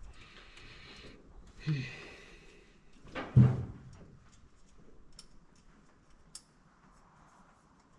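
Objects being handled in a small room: a short rushing noise, then two knocks with a brief low ring, the second louder, about two seconds apart, followed by a few faint ticks.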